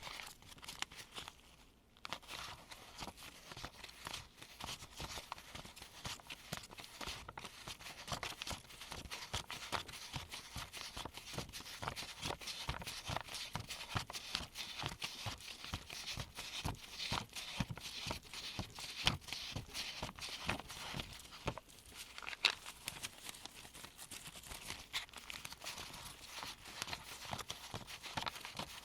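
Gloved fingers sifting through a stack of US one-dollar bills: a dense, continuous patter of paper rustling and flicking, with a short lull about two seconds in.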